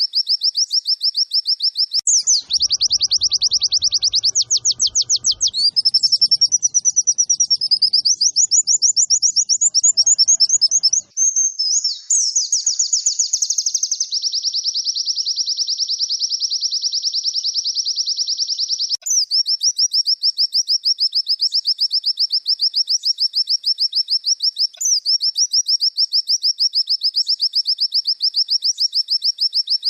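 White-eye (pleci) song: a very fast, high, nearly unbroken trill of rapid chirping notes. It shifts and wavers in pitch through the first half, then runs steady, with a few brief breaks.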